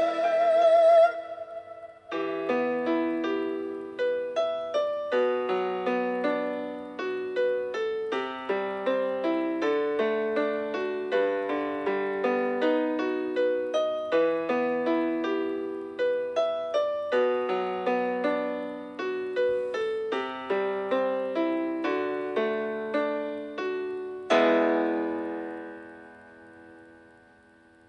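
Background piano music: a flowing run of quickly decaying notes, ending about 24 seconds in on one chord that fades away.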